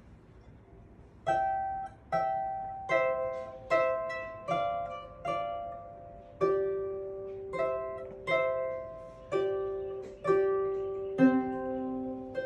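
Harp played slowly: single plucked notes, a little more than one a second, each ringing and fading, starting about a second in. In the second half, lower notes join the melody.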